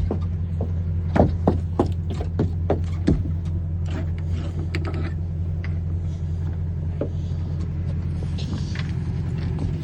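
An engine running steadily at a constant low drone, with a series of sharp knocks or clunks about a second to three seconds in and fainter ones later.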